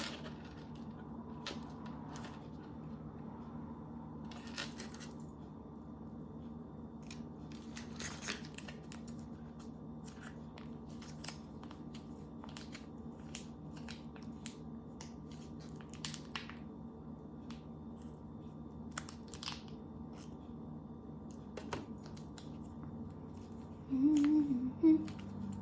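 Scattered small clicks, taps and rustles of gingerbread pieces and candy being handled and set down on a table, over a steady low hum. A voice begins humming near the end.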